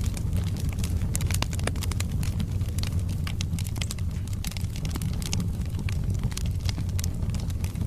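Wood fire burning in a fireplace, logs crackling with many small irregular pops over a steady low rumble of the flames.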